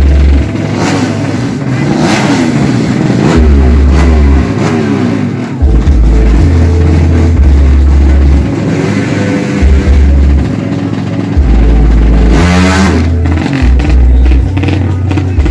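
Drag-racing motorcycle engines in the 200cc open class, revving hard in repeated rising and falling sweeps. About twelve and a half seconds in, one bike accelerates away with a sharp rising note. A heavy low thumping runs underneath the engines.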